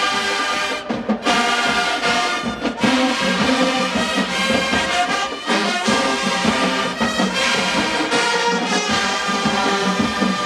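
HBCU marching band's brass section playing loud, full chords, with trombones and trumpets and short breaks between phrases.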